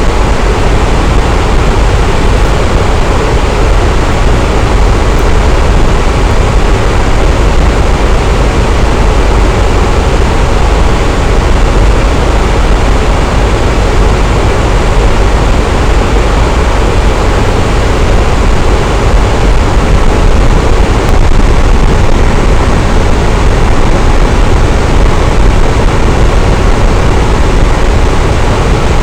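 Electric fan running steadily: a constant loud whooshing hum of air, heaviest in the low end, with no change in speed.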